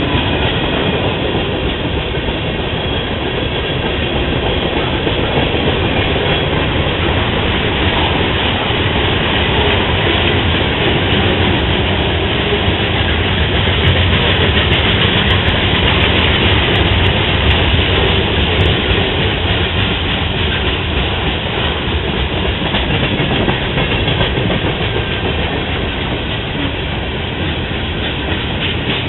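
A CSX freight train rolling past, its cars going by with a loud, steady rumble of wheels on the rails.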